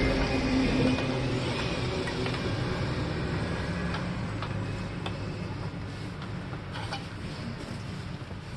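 A steady mechanical noise, like a power tool's motor running, slowly growing quieter.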